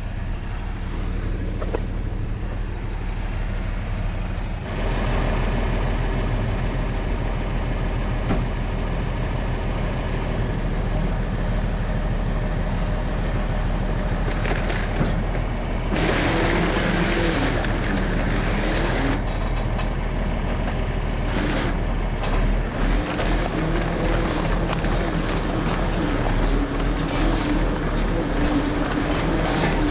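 Farm machine's engine running steadily, growing louder about five seconds in. A little past halfway a rougher rushing noise with a wavering hum joins it.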